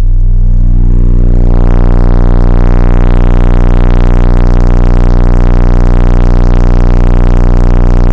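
Four 12-inch car subwoofers on about 3600 watts RMS playing a steady 30 Hz bass test tone, metered at about 152 dB. The phone's microphone overloads, so it comes through as a loud, unbroken, heavily distorted drone full of overtones.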